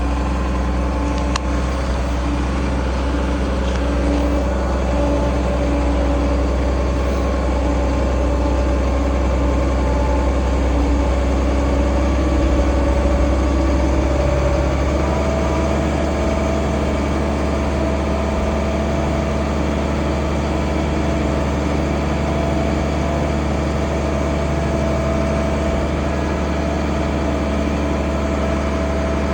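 International 1566 tractor's turbocharged six-cylinder diesel engine running steadily, its note shifting slightly about halfway through.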